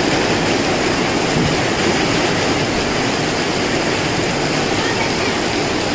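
Strong wind with heavy rain: a loud, steady rushing noise.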